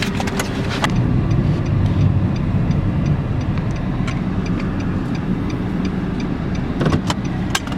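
A car driving slowly and pulling over to park, a steady low engine and tyre rumble, with a few sharp clicks near the start and again near the end.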